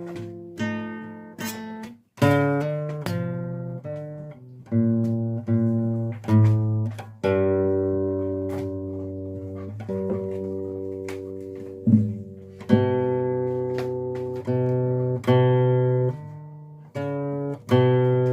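Acoustic guitar music: slow chords strummed every second or two, each left to ring out and fade, with one long chord held for several seconds in the middle.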